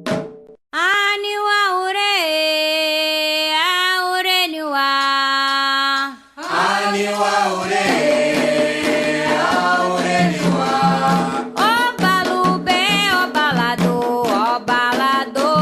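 Candomblé chant for Xangô sung call-and-response. A solo voice sings a long unaccompanied call with held notes. About six seconds in, a chorus answers, and drums and other percussion come in with a steady beat.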